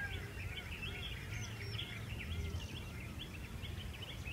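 Several birds chirping and calling: short high chirps repeat throughout over a run of lower arched whistled notes about three a second, with a steady low rumble underneath.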